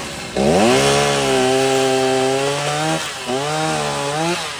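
Vehicle engine revved hard and held at high revs with a loud rushing noise over it. The revs dip briefly about three seconds in, then climb and hold again.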